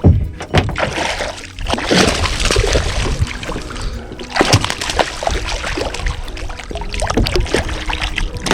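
Water splashing and sloshing around a kayak, with several sharp knocks, the loudest at the start, about two seconds in, and about four and a half seconds in.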